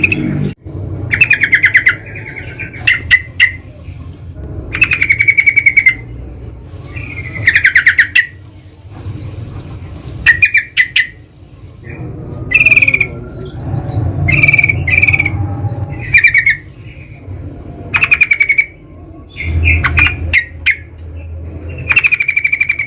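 Yellow-vented bulbuls (trucukan) calling: short bursts of rapid bubbly chattering notes, repeated about every one to two seconds, over a low rumble.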